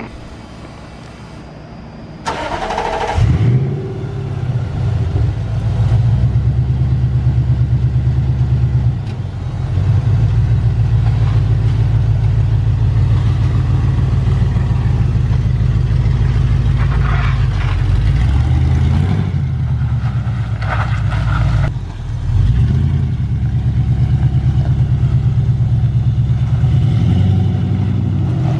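Supercharged Toyota off-road truck's engine starting about two seconds in, then running loud at fairly steady revs. There are a few short lifts and pitch changes along the way.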